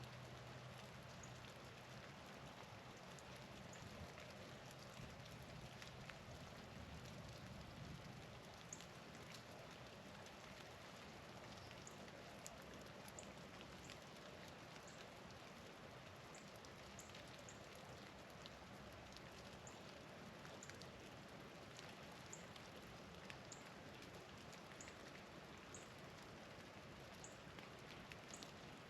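Faint, steady patter of falling wet snow or drips landing on surfaces, with many small ticks and faint short high chips now and then.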